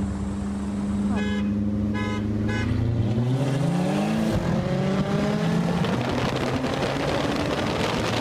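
Three short horn toots, then car engines accelerating hard at full throttle in a roll race. The engine pitch climbs, drops briefly at a gear change about four seconds in, and climbs again, heard from inside one of the moving cars.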